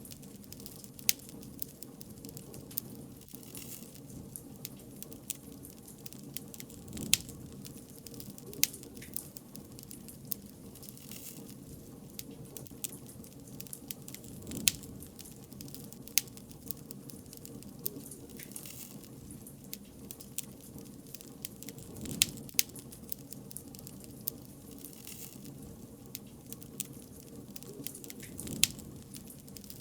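Wood bonfire crackling: irregular sharp pops and snaps, a louder one every second or two, over a steady low rush of burning.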